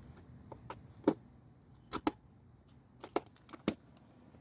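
Plastic seat trim cover knocking and clicking against the seat frame as it is handled and fitted, with several sharp taps, some in quick pairs.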